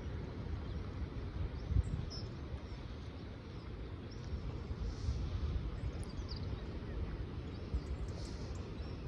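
Wind buffeting the microphone as a steady low rumble, with faint short bird calls now and then.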